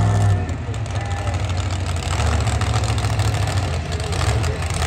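Monster truck engine running loud and steady, then dropping off the throttle about a third of a second in to a rough, uneven rumble.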